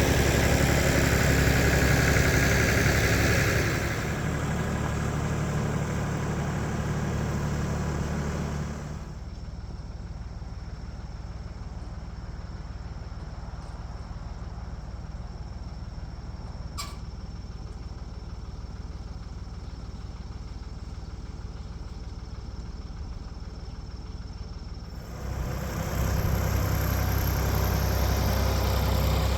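Tractor engine running steadily, its sound dropping quieter and duller about nine seconds in and coming back up a few seconds before the end. About halfway through there is one very short, high rising tone.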